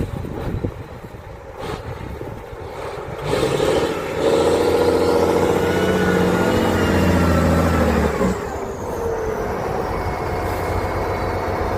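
Trial truck's diesel engine revving up hard under load about three seconds in, holding high for about four seconds, then easing back, with a thin falling whine as it settles. A few sharp knocks sound in the first two seconds.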